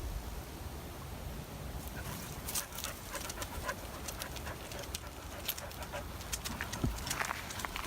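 Footsteps of a hiker and a dog on a trail: scattered crisp crunches and clicks that begin about two seconds in.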